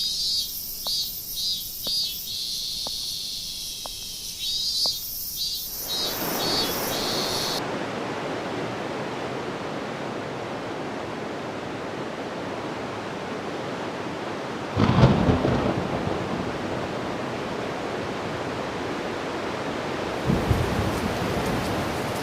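A thunderstorm: heavy rain sets in about six seconds in as a steady hiss, with a loud thunderclap rumbling out about two-thirds of the way through and a shorter one near the end. Before the rain, a high pulsing trill runs and stops soon after the rain begins.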